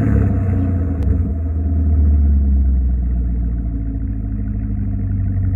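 Camaro SS 1LE's V8 idling steadily through Flowmaster Outlaw mufflers and an X-pipe, a deep, even exhaust rumble.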